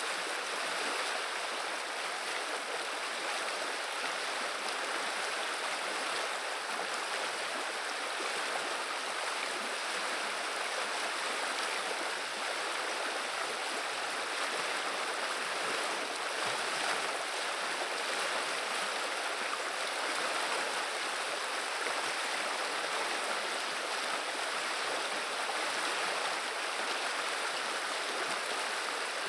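River water running and babbling steadily, an even rushing without breaks.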